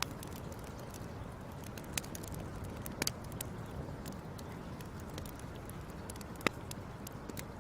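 Wood fire burning with a steady low rush and scattered sharp crackles and pops, the loudest pop about six and a half seconds in.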